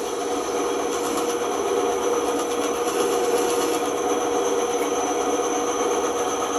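Band saw running steadily, its blade cutting through a wooden cutout with a continuous rasp over the motor's hum.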